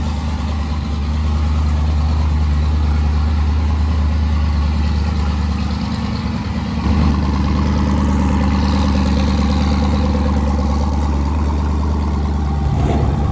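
Twin-turbo Chevrolet S10 drag truck's engine running steadily at low speed, a little louder from about seven seconds in.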